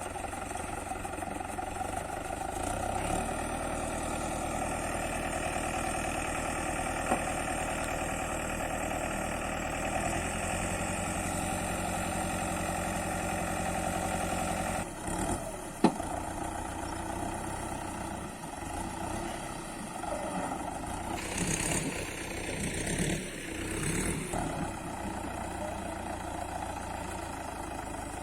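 Mahindra Yuvo 475 tractor's diesel engine running steadily, with a sharp knock about halfway through and a few bursts of hiss some seconds later.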